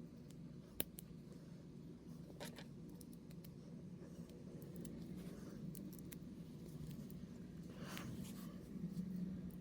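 Small plastic figure-kit parts being handled and pressed together: a sharp click about a second in, then scattered small ticks and a short scraping rustle near the end, over a faint low hum.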